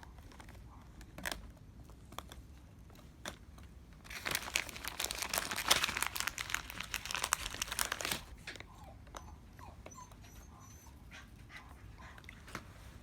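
Oriental turtle dove pecking at food: scattered sharp pecking clicks, with a dense run of rapid tapping and crunching for about four seconds in the middle.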